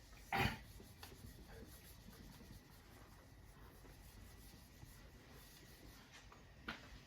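Faint scratching of handwriting, with one short louder sound about half a second in.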